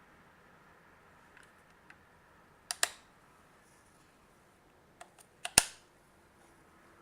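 Sharp plastic clicks and taps as batteries are put back into a Micronta 22-186 digital multimeter: a double click near the three-second mark, then a quick cluster of clicks a little past five seconds, the last one the loudest.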